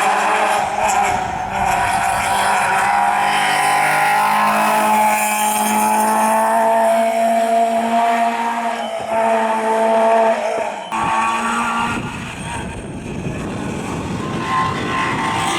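Rally car engine running hard at high revs on a stage. About eleven seconds in the sound changes abruptly to a noisier engine and tyre sound.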